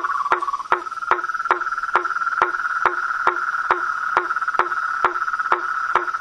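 Frogs calling: a steady high trill with a sharp click repeating evenly about twice a second; the trill shifts slightly higher about a second in.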